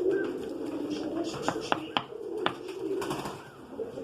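Domestic pigeons cooing steadily, with four sharp clicks about halfway through.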